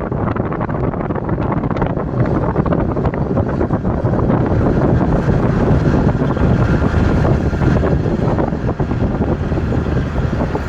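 Loud, irregular rumble of wind buffeting the microphone, heaviest in the low range, with no clear tones.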